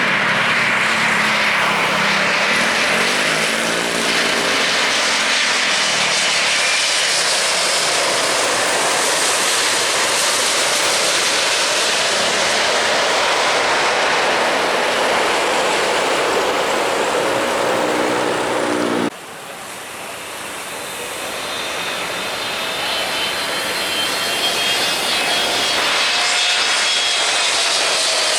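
Airliner engines at close range, a loud, steady rush with tones that slowly slide in pitch. About two-thirds of the way in the sound drops off suddenly, then another airliner's engine noise builds up steadily with a high whine.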